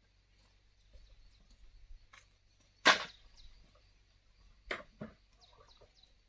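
A sharp, loud knock about three seconds in, then two lighter knocks close together near the end, like a tool striking wood or bamboo. A few short high chirps come near the end.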